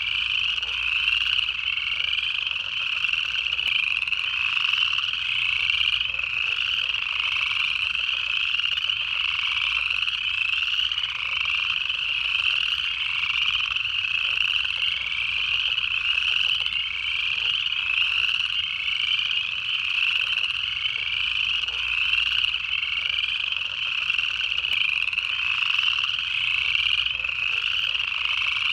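Dense chorus of upland chorus frogs giving their ascending trills, overlapping one after another. Spring peepers, American toads and southern leopard frogs also call in the mix.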